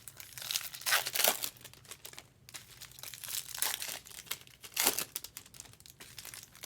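Foil wrappers of baseball card packs crinkling and rustling in irregular swishes as packs are opened and handled, with a few louder crackles.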